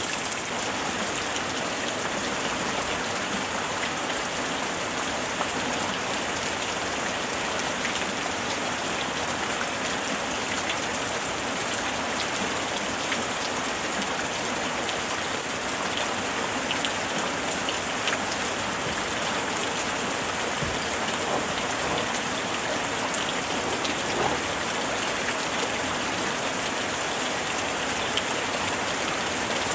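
Rain falling steadily: an even hiss with many small drop ticks scattered through it.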